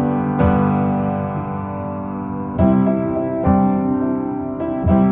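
Solo piano playing sustained chords, a new chord struck every second or two, as an instrumental passage of a slow pop song.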